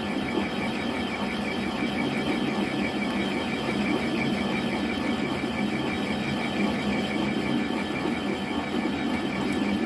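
A machine running steadily, with a fast, even pulsing.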